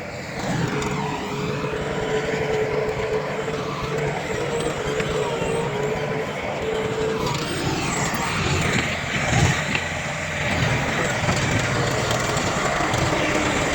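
Heavy diesel earthmoving machinery running under load, with a steady whine through the first half and a single louder knock about two-thirds of the way in.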